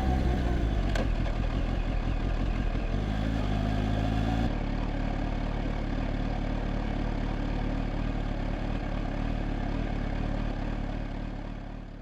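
Kawasaki Z H2's supercharged inline-four motorcycle engine running steadily, fading out over the last second.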